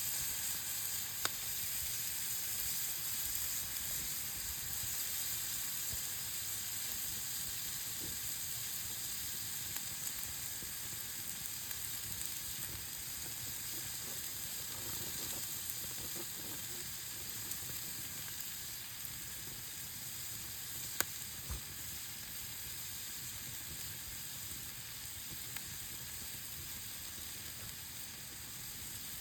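Meat sizzling as it grills over a campfire: a steady hiss, with a sharp pop about a second in and another about two-thirds of the way through.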